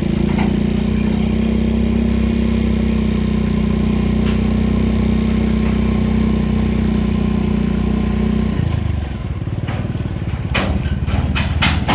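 Scania truck's diesel engine running steadily, then a little past two-thirds of the way through its steady note gives way to a lower, uneven chugging. Several sharp clicks or clatters come near the end.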